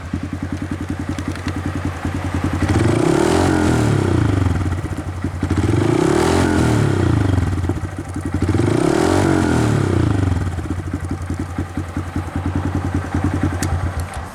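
Honda Grom's single-cylinder engine, fitted with an aftermarket exhaust, idling and then blipped three times, each rev rising and falling back. It settles back to a steady idle near the end.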